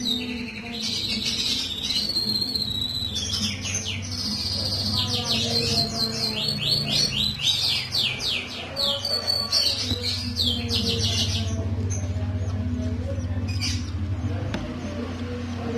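A songbird singing a long run of quick trills and chirping phrases that stops about three quarters of the way through, over a steady low hum.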